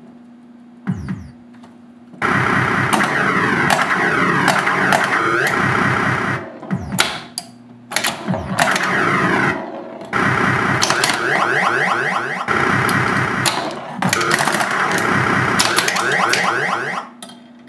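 Williams Gorgar pinball machine in play, sounding its electronic sound effects: a low thump about a second in, then long loud stretches of rapid warbling, siren-like sweeping tones over sharp playfield clicks. These stop and start again several times.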